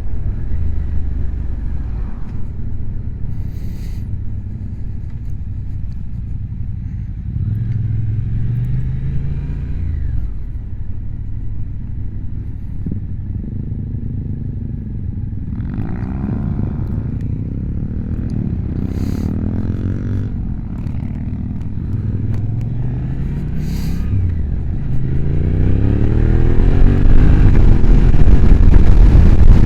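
Motorcycle engine under way, its revs climbing and dropping as it goes up through the gears. Wind noise builds toward the end as the speed picks up.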